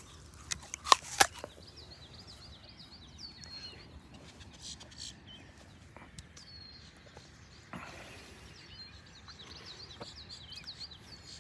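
Small songbird chirping in repeated quick high trills several times, over quiet outdoor background. Two sharp snaps about a second in are the loudest sounds.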